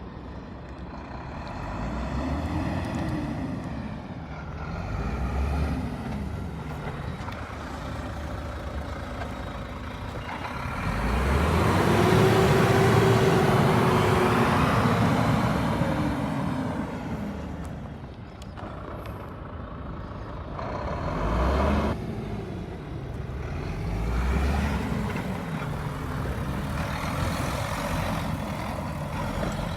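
Astra HD9 truck tractor's diesel engine being revved several times, the pitch climbing and falling with each rev, with one longer, louder rev held in the middle.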